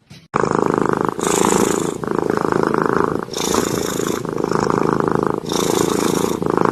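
A cat purring loudly and close up, a fast, steady rattle that changes character with each in- and out-breath, about once a second. It starts about a third of a second in.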